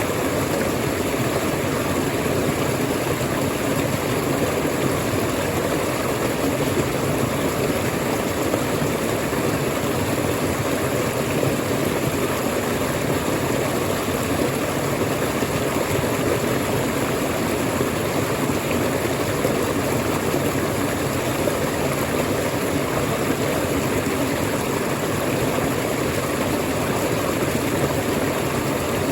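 Waterfall: falling water rushing as a steady, unbroken noise, fullest in the low-middle range.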